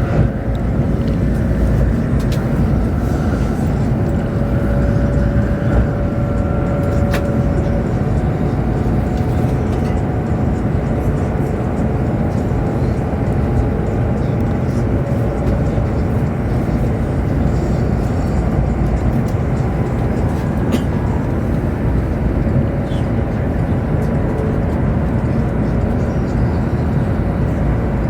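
Chinese high-speed train running at speed, heard inside the passenger cabin: a loud, steady rumble and hiss of wheels, track and air, with faint whining tones that come and go.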